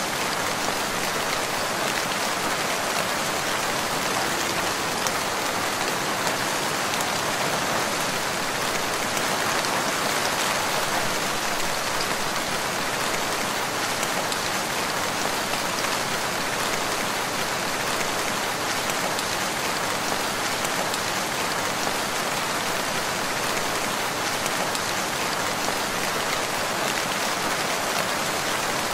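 Steady rain falling: an even, constant hiss of many drops with no breaks or changes.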